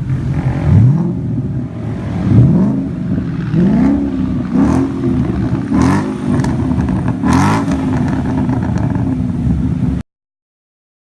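Ford Mustang 5.0 V8 with an aftermarket Drift Xaust exhaust being revved in about six quick throttle blips. Each rev rises and falls in pitch, and a few short sharp cracks come as the revs drop. The sound cuts off abruptly near the end.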